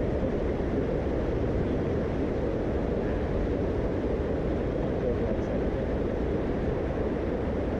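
Jet boat under way: a steady, unbroken rumble of the engine and rushing water.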